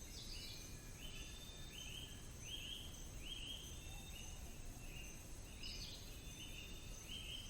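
Forest nature-sound recording: a small animal's chirping call repeated about twice a second, each chirp rising quickly and then holding briefly, over a faint steady high whine.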